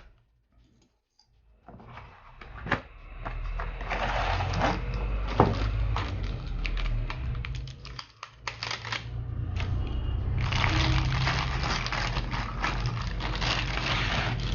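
Packaging rustling and scraping as boxed ceiling fan blades are unpacked, with sharp clicks and knocks among the rustle. It pauses briefly about eight seconds in.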